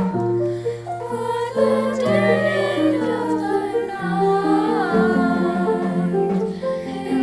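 Music: voices singing or humming over held chords, the bass and harmony changing every second or so.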